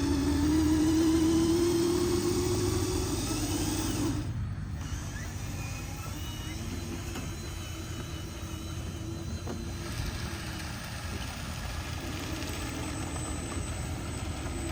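Whine of a radio-controlled construction truck's small electric motor under load, rising slightly in pitch over the first few seconds, then breaking off briefly and carrying on more quietly over a low rumble.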